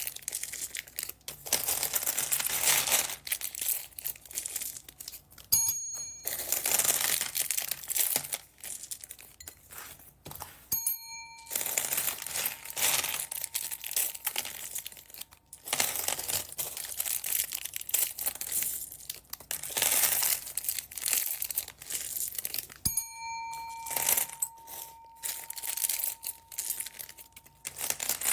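Plastic packaging bags crinkling and rustling as they are handled and torn open, in bouts with short pauses. A bright bell-like ding rings out three times, the last one lingering for a few seconds.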